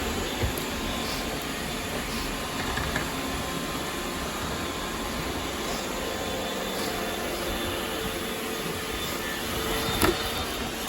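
Robot vacuum cleaner running steadily, a constant whirring hum of its motors and brushes, with a sharp click about ten seconds in.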